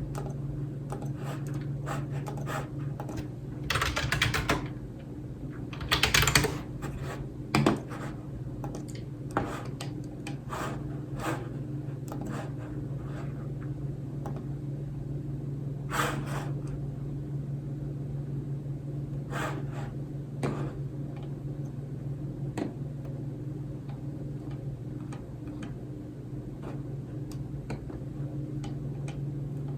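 Typing on a computer keyboard: irregular, spaced key clicks, with two louder, longer bursts of noise around four and six seconds in, over a steady low hum.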